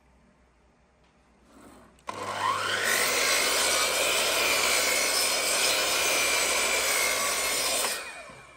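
A power tool on wood spins up with a rising whine about two seconds in, then runs steadily, cutting or sanding the wood for about six seconds before it stops.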